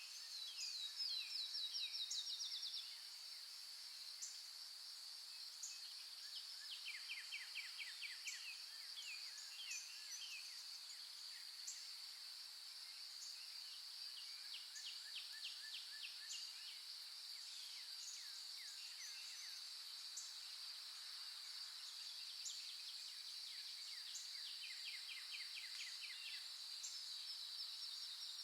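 Forest dawn ambience: a steady high-pitched insect drone with songbirds singing rapid trills of short descending notes, repeated every few seconds, and scattered sharp high chirps. The loudest trill comes in the first three seconds.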